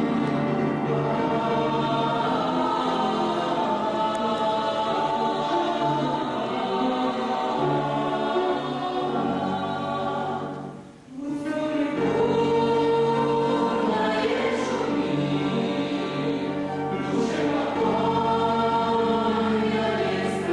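A church vocal group singing a hymn in several-part harmony, with a short pause about halfway through before the singing picks up again.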